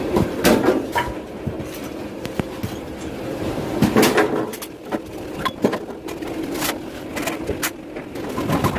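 Bowling alley clatter: sharp knocks at irregular intervals, the loudest about half a second and four seconds in, over a steady low rumble of pins and lane machinery.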